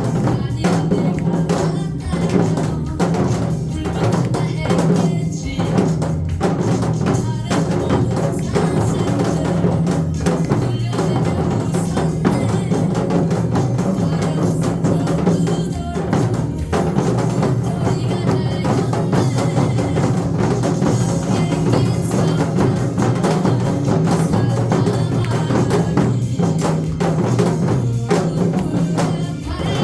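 Music with many quick, rhythmic drum strokes: janggu (Korean hourglass drums) played in ensemble over an accompanying tune with a steady low line.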